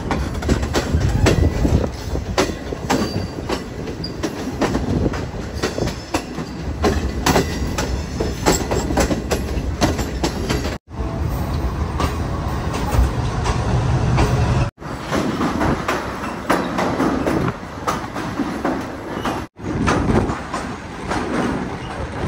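Passenger train coaches running along the track, heard from an open carriage door: a steady rumble of wheels with a rapid run of clicks and clatter over rail joints and points. The sound breaks off abruptly three times.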